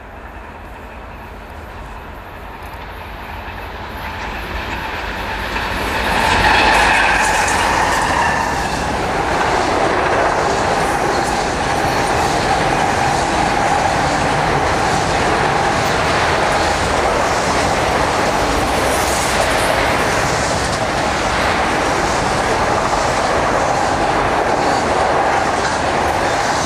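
Union Pacific freight train's diesel locomotives approaching and growing louder, loudest about six seconds in as they pass. A long string of autorack cars then rolls by with a steady rumble and clickety-clack of the wheels on the rails.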